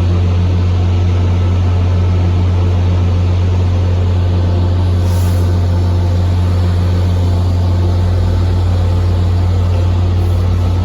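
Diesel locomotive engine idling: a steady, loud low drone that does not change.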